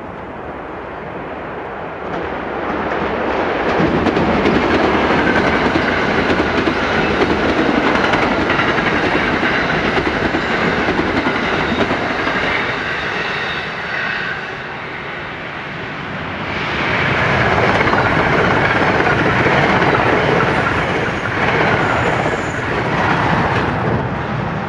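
Passenger train passing at speed, with a loud rushing noise and wheels clattering over the rail joints. The noise builds over the first few seconds, eases about two-thirds of the way through, then swells again.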